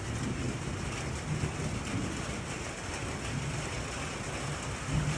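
Heavy rain falling steadily, a continuous even hiss with a low rumble beneath it.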